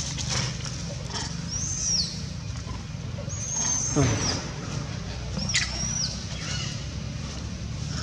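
Wild birds calling in forest canopy: three short, high whistled notes, each rising and then falling, over a steady low background rumble, with a call sliding down in pitch about four seconds in.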